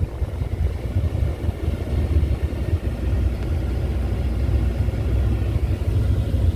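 A vehicle engine giving a steady low rumble.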